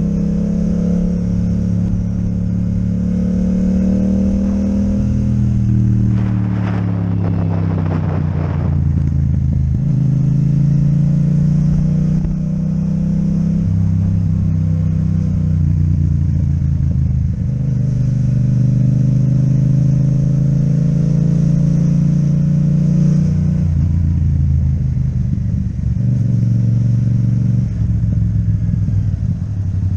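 Yamaha MT-07's parallel-twin engine with an Akrapovic exhaust running under way, its pitch rising and falling with throttle and gear changes. A rush of noise joins it about six to nine seconds in.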